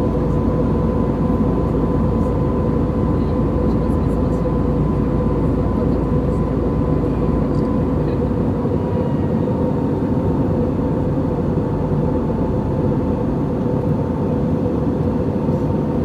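Airliner cabin noise heard from a window seat: a steady rumble and rush of engines and airflow with a constant whine that eases slightly lower partway through.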